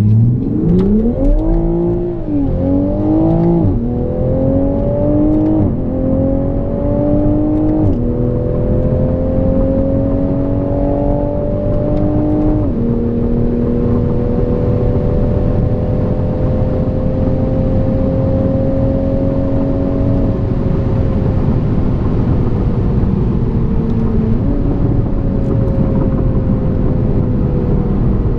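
Stock Toyota GR Supra (MK5) engine under full throttle, heard inside the cabin, revving up and shifting up through the gears. It briefly touches the rev limiter in first gear. After about five upshifts in the first 13 seconds it pulls on in a tall gear, then the revs fall as the car slows, with a downshift blip about 24 seconds in.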